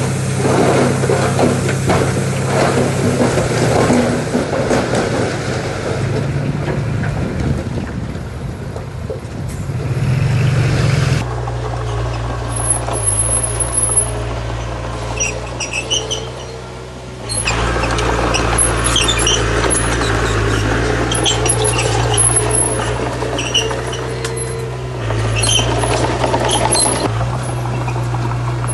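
Heavy diesel earthmoving machinery running under load, with a steady low engine drone and a broad rumble of moving stone and machinery over it. The sound changes abruptly twice, about 11 and 17 seconds in.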